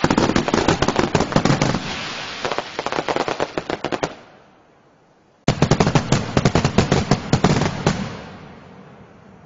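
Fireworks going off in two volleys of rapid, densely packed bangs and crackles. The first fades out about four seconds in; after a short lull a second volley starts suddenly and dies away near the end.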